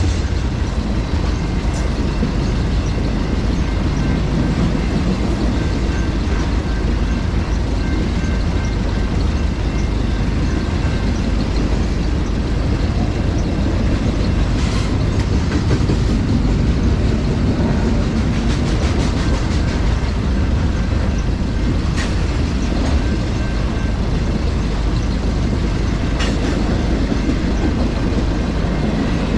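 Intermodal freight train's container and trailer cars rolling past: a steady rumble and rattle of steel wheels on rail, with a few sharp knocks along the way.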